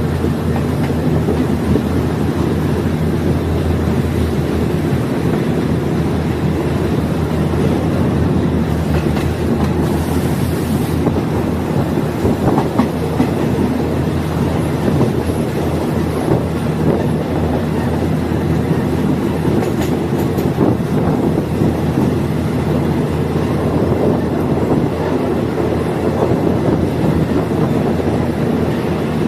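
Diesel multiple unit running along the track: a steady engine and rolling noise with wheels clicking over the rail joints.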